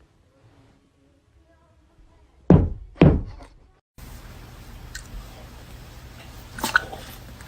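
Two loud knocks about half a second apart, each dying away quickly, followed by steady background hiss with a faint click.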